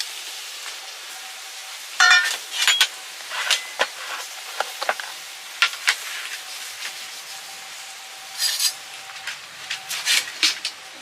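Metal utensils clinking and scraping against cookware in irregular bursts over a steady sizzling hiss.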